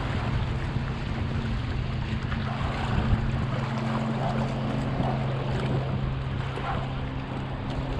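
A small boat's motor running steadily with a low hum, under wind and water noise.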